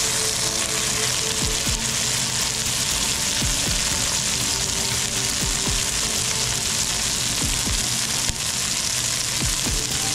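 Chicken breasts searing in hot oil in an enamelled cast-iron Dutch oven, a steady, even sizzle.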